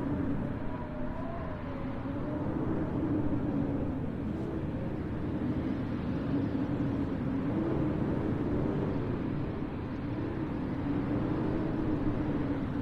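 Steady snowstorm wind noise, with a low hum that wavers slowly in pitch throughout.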